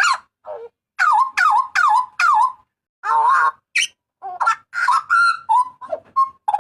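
Hooded butcherbird (jagal papua) calling loudly in clear whistled notes. A run of four similar notes comes about a second in, then a longer warbled note, then a quicker string of varied notes.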